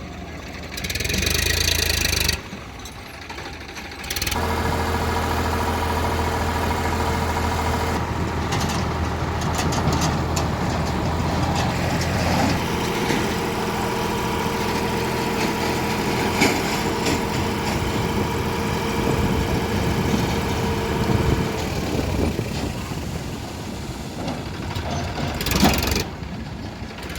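Diesel tractor engine running at a steady speed, with a steady whine over it, broken by a couple of sudden changes in the first few seconds.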